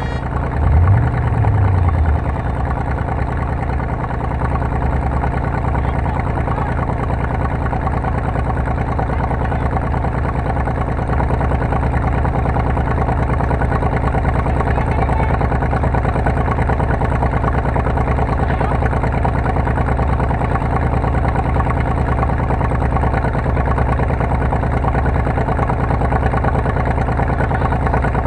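A car engine running steadily, with a brief swell in pitch about a second in.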